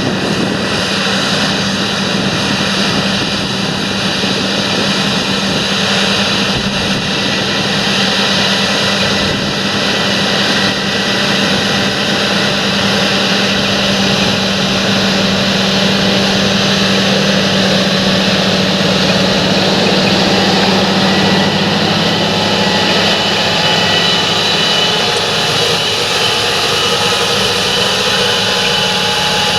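Large John Deere tractor working in the field, its engine running as a loud, steady drone under load; the engine note drops slightly about two-thirds of the way through.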